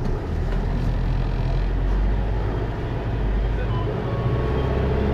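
Hino Liesse RX4JFEA microbus's J05C diesel engine pulling away and accelerating under its automatic transmission, heard from inside the bus. The engine note rises sharply at the start and dips briefly about four seconds in, as at a gear change.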